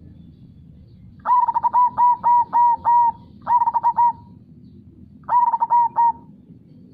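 Zebra dove (perkutut) cooing in quick runs of short notes: a long run starting about a second in, a short run right after, then another short run after a pause. A steady low rush of flowing river water lies underneath.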